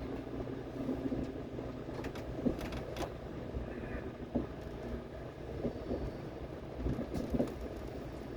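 Passenger train cabin running noise: a steady low rumble, with occasional short knocks and clicks.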